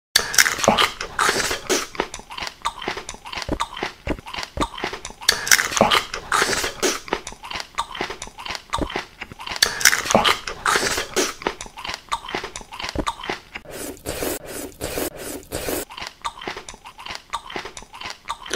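ASMR eating sounds: continuous crunching and chewing, bite after bite, with louder crunches every second or so.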